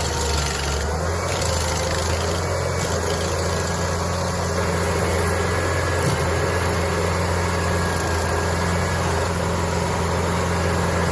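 Engine of a stump-removal machine running at a steady speed, with a constant low hum.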